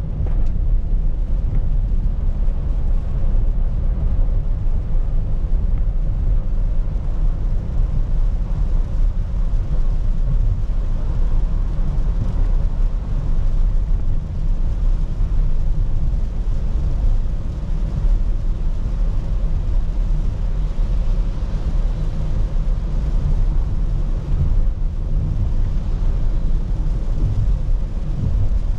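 Steady low rumble of a car driving, heard from inside the cabin by a dashcam, with a fainter hiss of rain and wet road above it.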